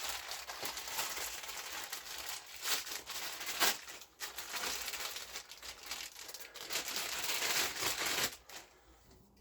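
Plastic parts packaging being handled and opened, crinkling continuously with sharper crackles, which stops about a second before the end.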